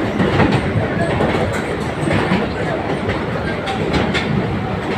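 Mumbai suburban electric local train running on its track, a loud steady rumble with repeated clacks of the wheels.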